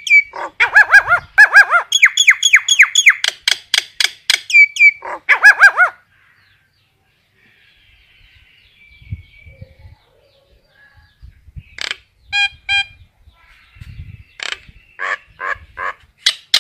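Common myna calling to the flock: a fast run of loud, downward-sliding chattering notes for about six seconds, then a pause of several seconds, then the calls resume with a few sharp notes and another quick run near the end.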